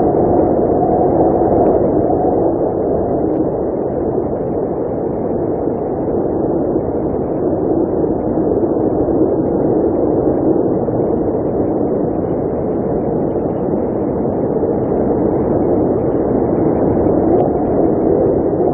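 Blizzard wind blowing in a steady, low rush that swells and eases slightly over a few seconds.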